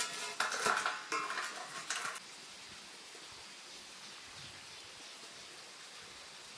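Metal pieces clattering and scraping against each other with a brief ringing, for about two seconds, then only a faint steady hiss.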